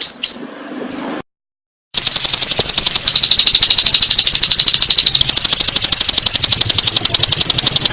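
Fischer's lovebird calling: a run of quick, evenly repeated high chirps that breaks off. After about a second of dead silence, a long, rapid, high-pitched trill starts and keeps going.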